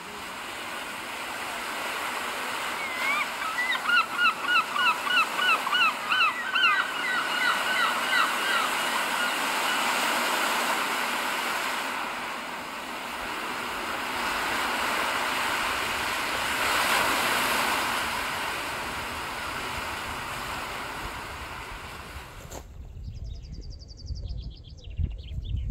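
A bird calls a fast series of short rising notes, two to three a second, for several seconds over a steady rushing noise. Near the end the sound cuts off abruptly to much quieter, with faint rapid high ticking.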